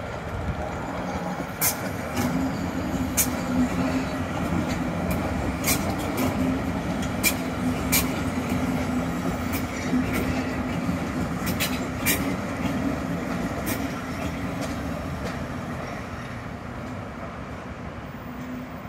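Hamburg S-Bahn class 474 electric train running past with a steady hum. Its wheels give sharp clacks every second or so as they cross rail joints and points. The sound slowly fades near the end.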